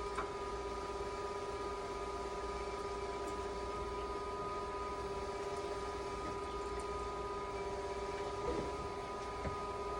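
Repaired dialysis machine running a test in dialysis mode: a steady hum with constant whining tones from its pumps and motor.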